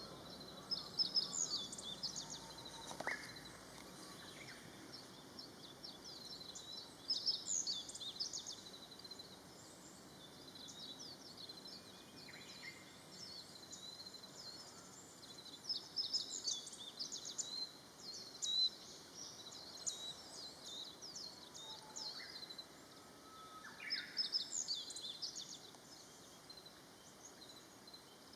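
Small birds calling: many short, high chirps in scattered bursts.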